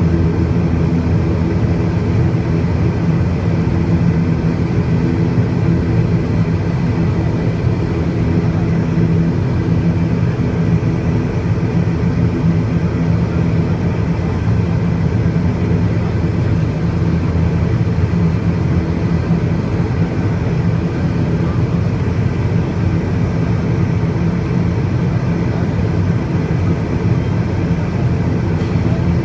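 Steady low engine drone with several steady low tones, unchanging throughout.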